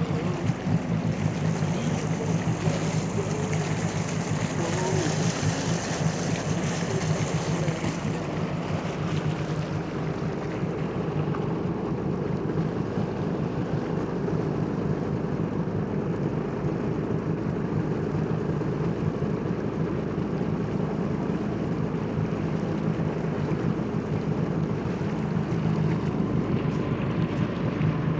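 Personal watercraft (jet ski) engine idling steadily, with a high hiss over it for the first nine seconds or so.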